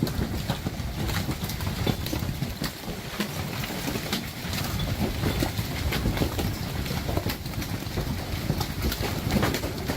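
Large hailstones pounding down, a dense irregular patter of hard knocks over a steady rushing noise.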